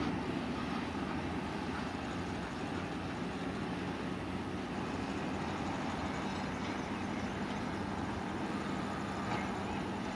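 A train running, heard as a steady low rumble with a faint constant hum and no distinct wheel clicks.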